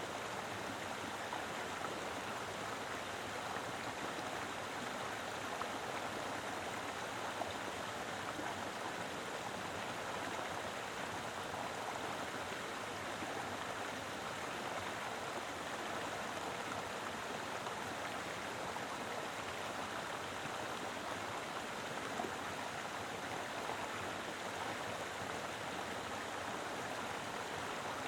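Mountain river flowing steadily over rocks, an even rushing of water with small splashes.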